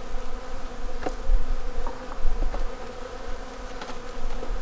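Honeybees buzzing around an open hive: a steady hum, with a few faint clicks.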